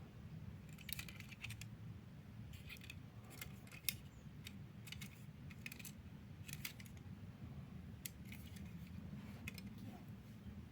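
Small hard objects handled at close range: scattered light clicks and rattles, in small clusters every second or so, over a low steady hum.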